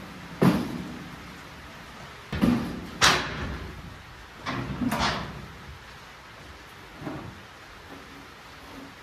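About six sharp bangs or knocks, each dying away quickly. The loudest come just after the start and about three seconds in, with a pair around the middle and a weaker one later.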